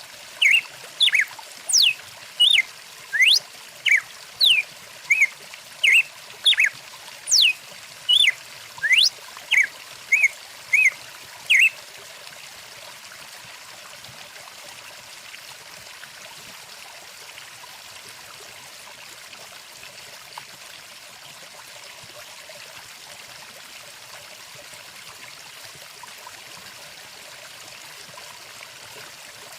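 A stream running steadily, with a songbird whistling a quick run of short notes that sweep sharply up or down, about two a second, through roughly the first twelve seconds; after that only the running water.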